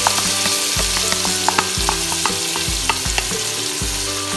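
Beef and tomato purée frying with a steady sizzle in an aluminium pressure-cooker pot, stirred with a wooden spoon that gives several short knocks against the pot.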